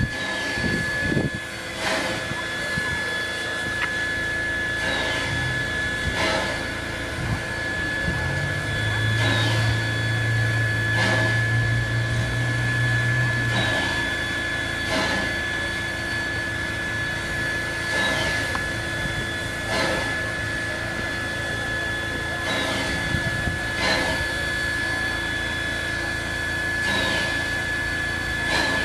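Sydney Trains electric train running with a steady whirring and a high whine, and a short click every second or two. A low hum joins for a few seconds about a third of the way in.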